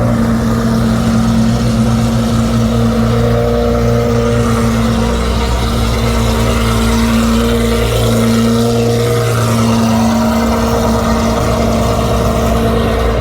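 A car engine running steadily and loudly, holding an even pitch with a slight waver partway through.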